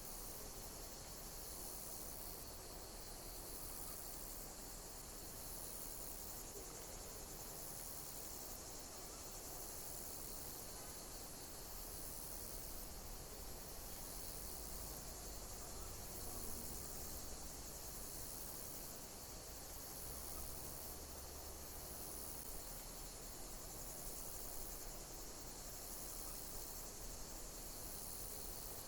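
Insects chirping, high-pitched, in a pattern that repeats about every two seconds over a steady hiss.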